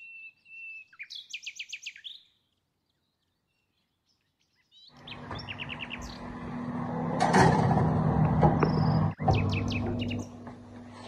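Small birds chirping, with a high whistle and a quick trill in the first two seconds. From about five seconds in they go on over a steady hum and the knocks and rustle of a metal baking tray being handled at an open oven, which are loudest a little past the middle.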